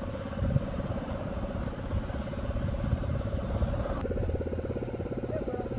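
Small mini bike engine running steadily after being restarted, with an even putter that grows more distinct about four seconds in.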